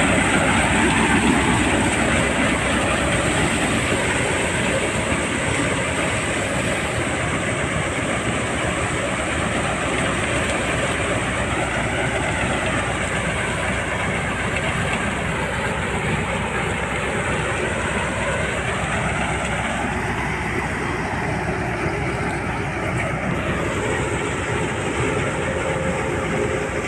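Threshing machine driven by a diesel tractor, running steadily with a dense, continuous rattle and whirr over the engine's drone.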